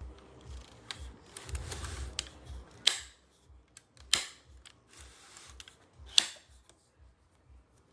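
Handling noise: a few sharp clicks and knocks of hard objects, with three louder ones a second or two apart and a short rustle about two seconds in.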